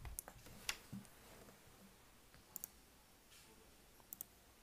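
Faint computer mouse clicks over near silence: a couple of single clicks in the first second, then two quick double-clicks, about 2.5 and 4 seconds in.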